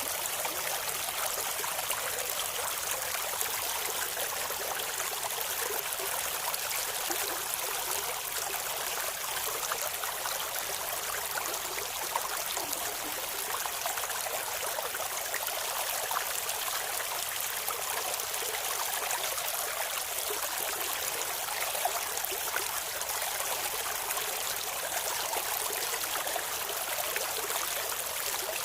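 Clear river water babbling steadily over stones, an even rushing hiss with no breaks.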